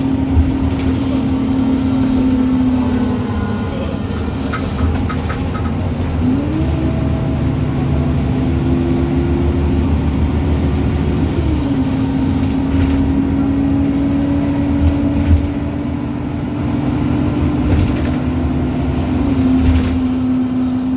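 MAN Lions City G articulated bus under way, its differential and gearbox giving a steady whine that steps down and back up in pitch a few times, over low engine and road rumble with a few knocks.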